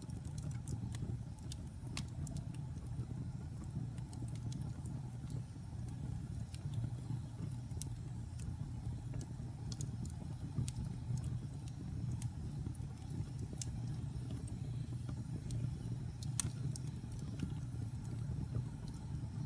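Fire burning in a fireplace: a steady low rumble of flames with scattered sharp crackles and pops, one louder pop about 16 seconds in.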